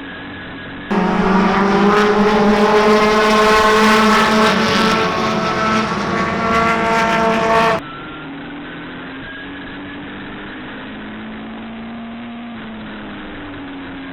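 Midget race car engines running at speed on the track. From about one second in to near eight seconds, a louder, closer engine sound holds a fairly steady pitch, starting and stopping abruptly.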